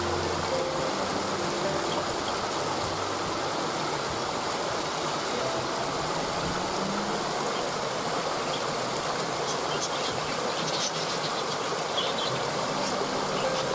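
Waterfall rushing steadily, with a few brief high bird chirps late on.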